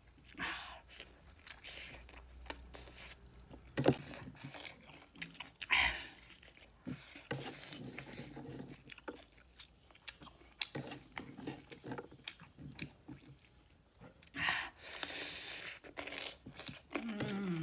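Close-miked eating sounds: a person chewing and biting food with her mouth, with wet smacks and short crunchy bites, the sharpest about four and six seconds in. Near the end come crisp crunches of a fresh cucumber slice being bitten.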